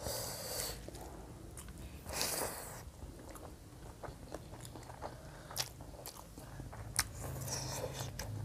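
Close-miked eating sounds of people eating rice and curry by hand: chewing with scattered wet mouth clicks and smacks, over a faint low hum.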